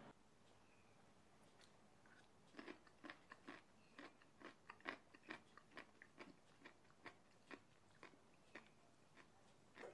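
Someone chewing crunchy stir-fried coconut shoots: a run of short, crisp crunches, about two a second, starting a couple of seconds in.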